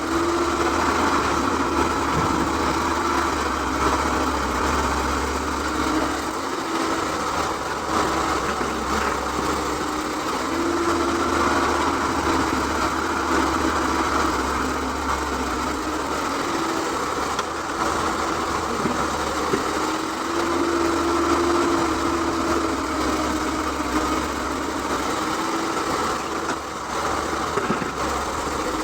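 Excavator's diesel engine running steadily under work, with a mid-pitched tone that swells and fades every few seconds.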